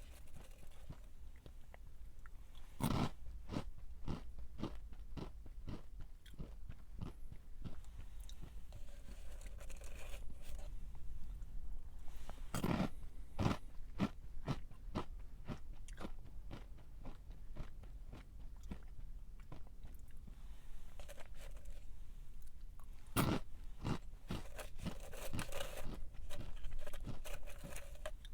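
A crunchy snack being bitten and chewed close to the microphone: a steady run of crisp crunches, with louder bites about three seconds in, near the middle and near the end.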